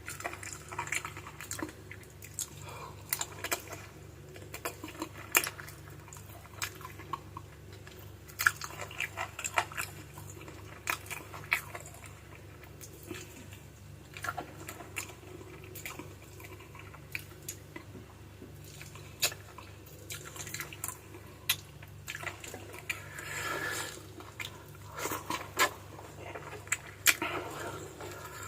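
Close-miked chewing and biting of spicy chicken feet adobo, full of wet mouth smacks and short sharp clicks at an uneven pace. A steady low hum runs underneath.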